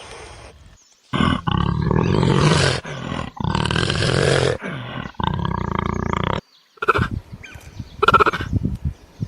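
A large animal roaring: a string of long, rough, loud roars, followed near the end by shorter, higher calls.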